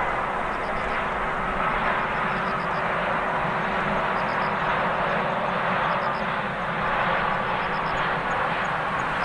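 Steady jet noise from a Boeing 787-8 Dreamliner's Rolls-Royce Trent 1000 turbofan engines, with a steady hum running through it.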